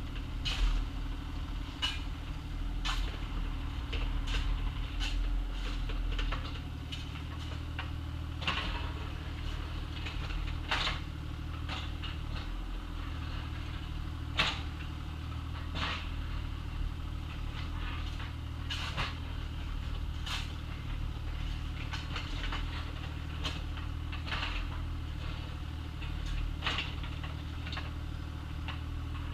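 Excavator engine running steadily, with irregular sharp clanks and knocks from the bucket working in gravel and dirt.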